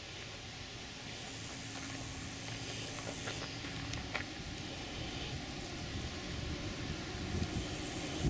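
A car driving, with a steady hiss of road and tyre noise that grows slightly louder, and a few faint clicks about three to four seconds in.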